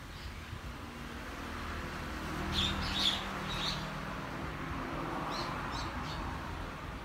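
Small birds chirping in two short runs of quick high calls. Under them, a low engine hum of a passing vehicle swells and fades.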